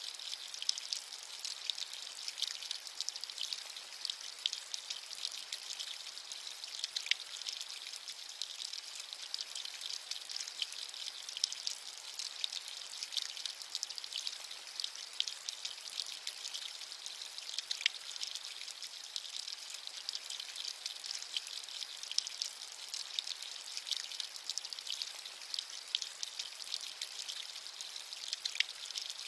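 Steady rain: a dense, even patter of many small drop impacts, with a bright hiss and no low rumble.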